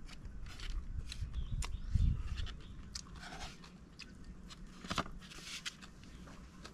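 A person chewing and crunching food close to the microphone, with many short, crisp clicks and a louder crunch about five seconds in. A low thump comes about two seconds in.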